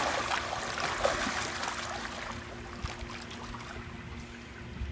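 Swimming-pool water splashing and sloshing from people thrashing about, dying down to gentle lapping. A faint steady hum runs underneath.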